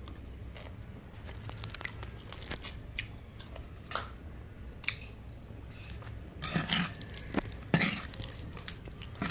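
A person chewing fried boneless chicken pickle, with small crunchy bites scattered throughout and a louder run of crunching about six and a half to eight seconds in.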